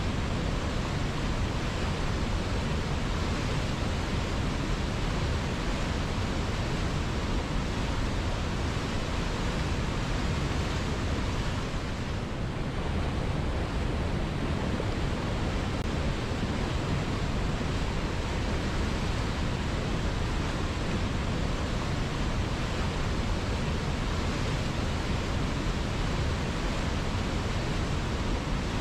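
River water flowing: a steady, even rushing that scarcely changes.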